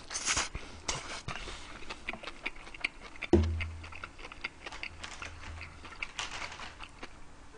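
Open-mouthed chewing of a huge mouthful of bibimbap (rice and seasoned vegetables), a steady run of wet smacks and clicks, with one sharp thump a little over three seconds in.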